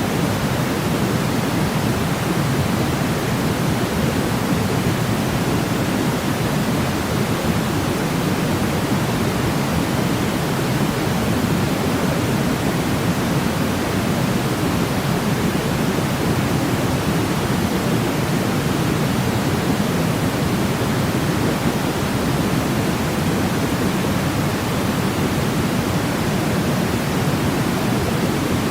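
Steady white noise for sleep: a constant, even hiss weighted toward the low end, unchanging throughout.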